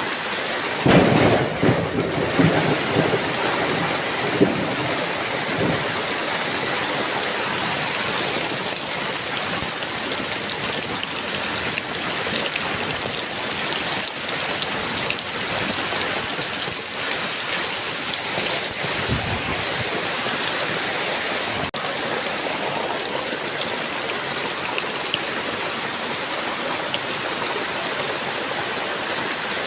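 Heavy rain falling steadily, with a rumble of thunder about a second in and a fainter rumble a little past the middle.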